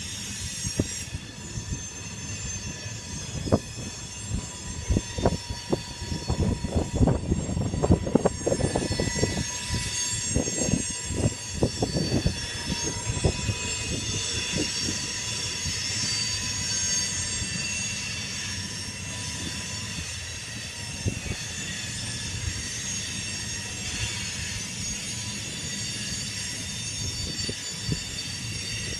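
BNSF grain train's cars rolling past with a steady high-pitched wheel squeal. A dense run of knocks from the wheels and couplers comes through in the first half and thins out after that.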